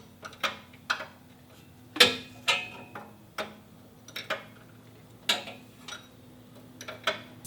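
Hand tools clinking and knocking on metal parts under a car: about nine sharp, irregular clicks, the loudest about two seconds in, as the clutch linkage is being loosened.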